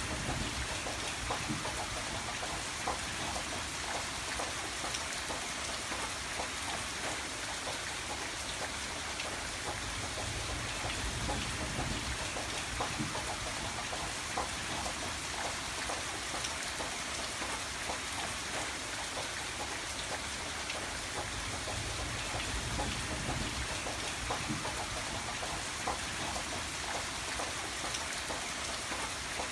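Steady rain falling, a dense patter of drops over an even hiss, with a low rumble underneath that swells gently now and then.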